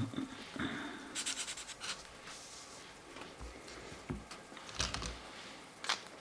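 Marker tips scratching across colouring-book paper in short strokes, with a quick run of back-and-forth strokes about a second in and a few firmer single strokes later.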